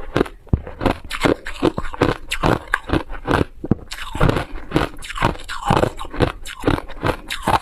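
A person biting and chewing ice, close up: rapid, irregular crunches of the ice cracking between the teeth, several a second.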